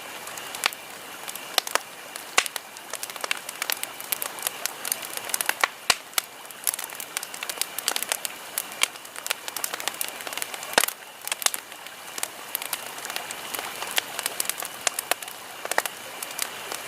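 Wood campfire burning, crackling with frequent irregular pops and snaps over a steady hiss.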